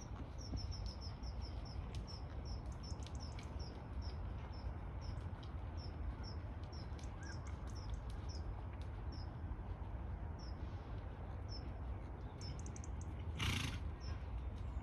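A small bird chirping over and over in short, high notes: a quick run of them at the start, then about two a second. A short, loud rush of noise comes near the end.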